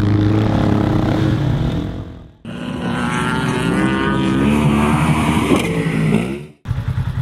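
Subaru Impreza sedan's engine running hard as its wheels spin and spray loose sand, fading out about two seconds in. Then a Polaris side-by-side UTV's engine revving up and down as it drives over the sand dunes.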